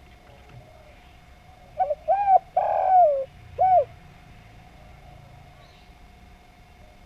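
Spotted dove (derkuku) cooing: one phrase of four notes about two seconds in, with two short notes, a longer held note that falls away at its end, then a last short note.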